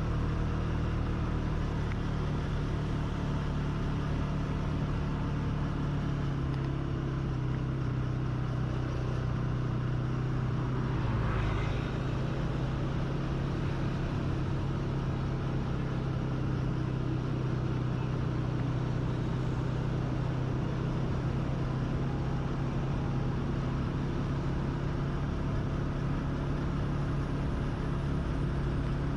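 Motorcycle engine running steadily while riding along, its pitch shifting slightly about six seconds in and again around eleven seconds, over road and wind noise.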